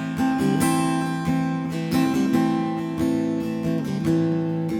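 Live band music with strummed acoustic guitar chords in a steady rhythm, between sung lines.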